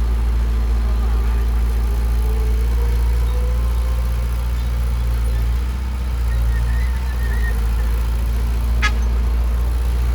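Heavy diesel engine of earthmoving equipment running steadily with a deep, even hum, and a single sharp click near the end.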